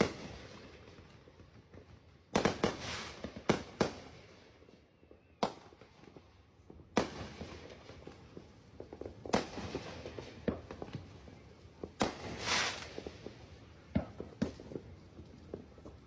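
Fireworks going off: single sharp bangs at irregular intervals, a few seconds apart. After one bang near the end there is a brief crackle, then a run of small pops.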